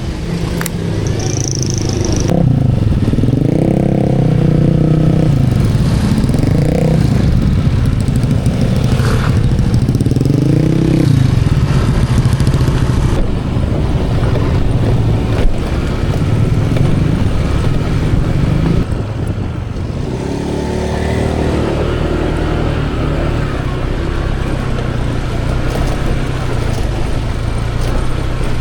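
A small engine running and revving, its pitch rising and falling in several swells as it speeds up and slows down, then running steadier with another pickup near the end.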